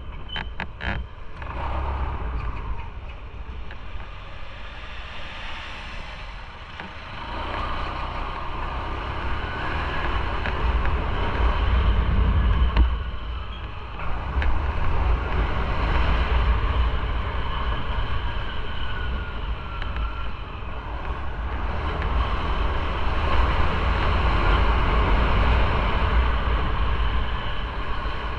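Motorcycle riding along a road, its engine and wind noise rising and falling in loudness as it speeds up and eases off, with a few short clicks in the first second.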